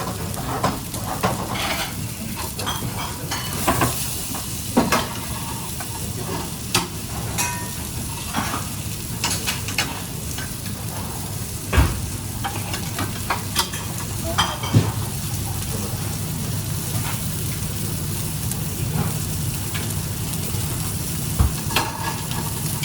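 Food sizzling and frying in a pan as it is stirred, with occasional sharp knocks, the loudest about halfway through.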